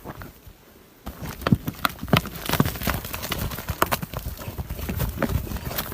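Hooves of fighting bulls knocking and scuffing on the ground: irregular sharp impacts begin about a second in, over a low rumble.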